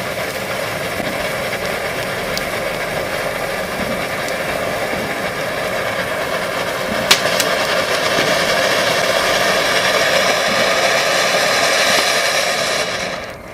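Ground fountain firework spraying sparks with a steady, even hiss. It grows a little louder before cutting off as it burns out near the end, with one sharp crack about seven seconds in.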